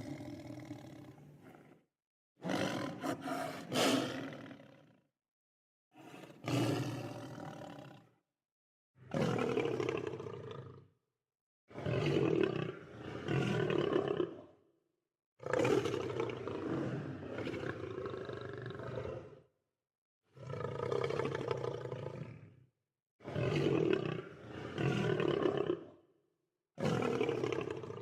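Lion roars, one after another: about nine separate roars of two to four seconds each, every one cut off by dead silence before the next begins, as in a spliced sequence of recordings.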